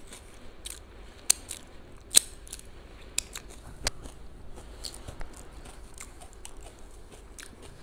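Crunchy salted egg salmon-skin crisps being chewed: irregular sharp crunches, the loudest about one and two seconds in.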